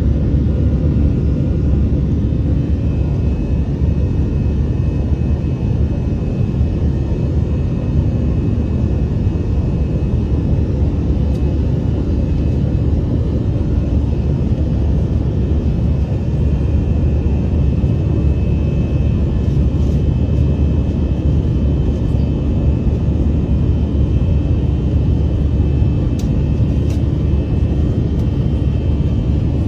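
Steady low rumble of an airliner's engines and airflow heard inside the passenger cabin in flight, with a faint thin whine above it.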